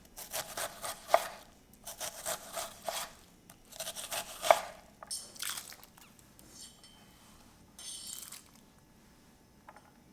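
Quick, repeated scraping strokes in several runs, stopping about six seconds in, then a few fainter scrapes.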